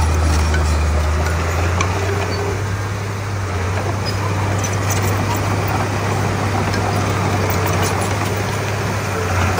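Komatsu D31P bulldozer's diesel engine running steadily with a deep, even drone, with faint clicks over it.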